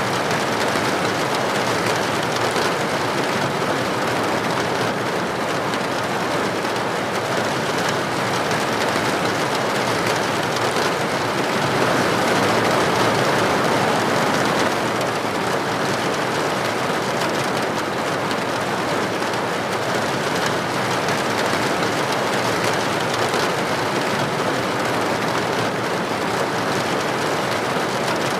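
Steady rain falling: an even, unbroken hiss that swells slightly about twelve seconds in.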